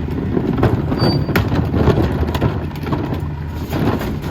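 Mack MRU rear-loader garbage truck with a McNeilus body working close by: a steady engine rumble under a dense, irregular clatter of knocks and rattles.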